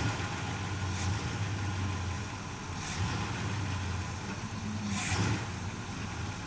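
1968 Pontiac GTO's V8 idling steadily with the hood open, with short rushes of hiss about every two seconds.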